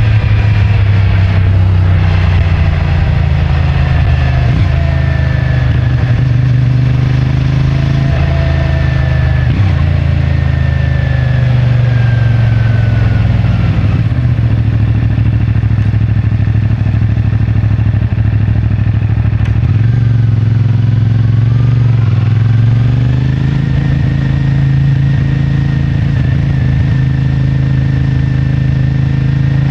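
CFMoto 450MT's 449 cc parallel-twin engine running through its stock exhaust while riding. Its pitch sinks slowly over the first half as the bike slows, climbs again about two-thirds of the way in, then holds steady.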